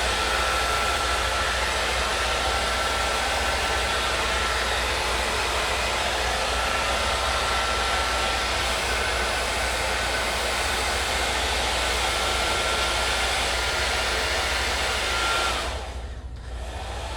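Handheld blow dryer running on a high setting, a loud, steady rush of air with a thin, steady whine. It drops off about fifteen seconds in and comes back more quietly near the end.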